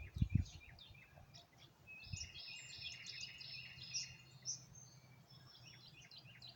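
Small songbirds chirping in short, quick repeated calls, busiest in the middle. A couple of low thumps near the start.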